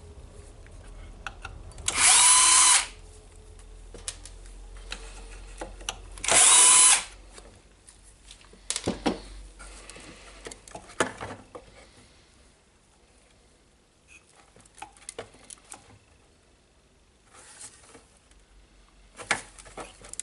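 Cordless electric screwdriver or drill run in two short bursts of under a second each, its whine rising as the motor spins up, likely backing out screws. Afterwards, light clicks and small knocks of parts and screws being handled.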